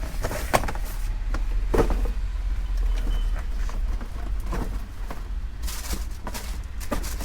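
A steady low rumble with scattered short knocks and rustles, about half a dozen, as items are handled.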